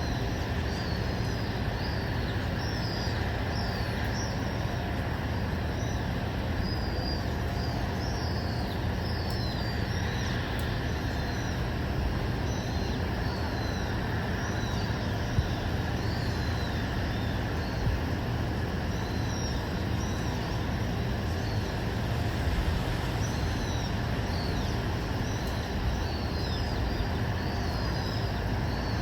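Many small birds chirping in quick, short calls throughout, over a steady low rumble of distant traffic.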